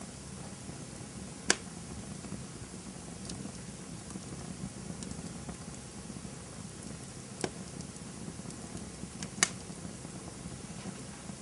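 Campfire burning: a low steady rumble of the flames with scattered faint crackles and three sharp pops spread through it, the first and last the loudest.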